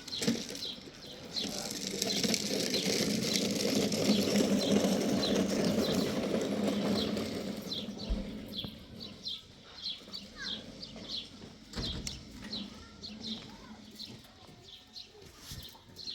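Small birds chirping in quick, short, high calls, repeated many times. A louder rushing noise runs for several seconds in the first half, then fades.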